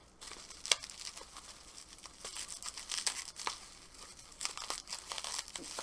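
Packaging on a slime container being handled and torn open: irregular crinkling, tearing and small sharp crackles.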